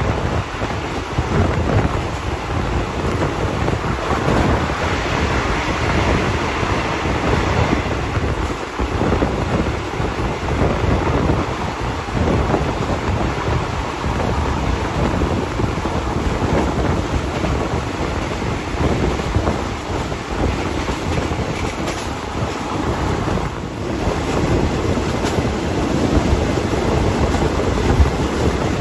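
A passenger train running at speed, heard from an open carriage window: a steady rush of wind on the microphone over the rolling noise of the wheels on the rails, with a few faint knocks.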